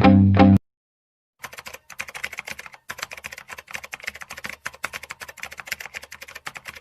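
Background music cuts off half a second in. After a short gap comes rapid, irregular clicking like typing on a keyboard, several clicks a second.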